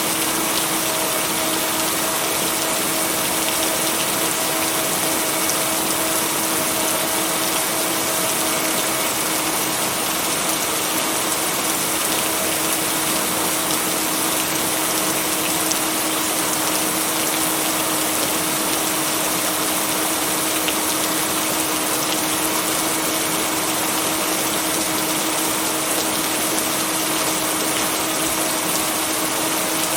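Steady heavy rain, an even unbroken hiss, with a faint steady hum underneath.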